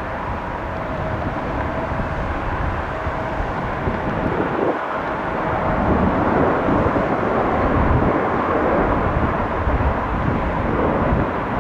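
Jet noise from a Boeing 717-200's twin Rolls-Royce BR715 turbofans: a steady rush with a faint high whine, slowly growing louder through the second half.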